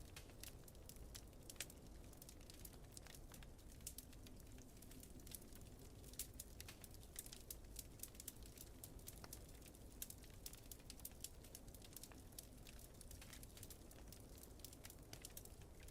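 Wood fire in a fireplace crackling with many small irregular pops and snaps, over a faint, steady low rumble.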